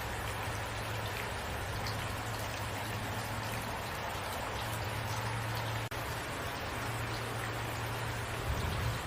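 Steady rainfall with scattered individual drops and a low rumble under it. The sound dips for an instant about six seconds in.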